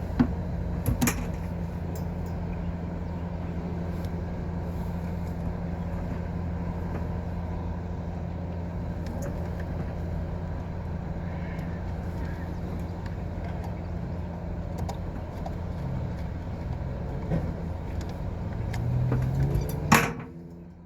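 A machine running with a steady low hum, with a few sharp clicks about a second in. Near the end it gets louder, then there is a click and the hum stops.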